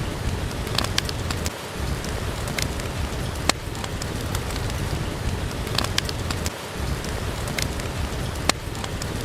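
Steady rain with a crackling wood fire: a constant hiss and low rumble of rain, broken by sharp pops from the fire every second or two. The same pops come back about every five seconds.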